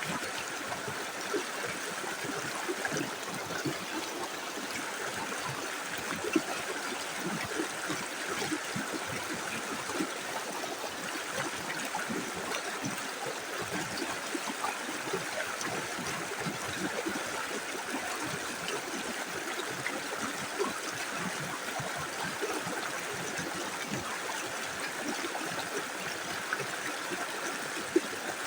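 Small river flowing steadily over stones, with continuous babbling and trickling and a few slightly louder splashes.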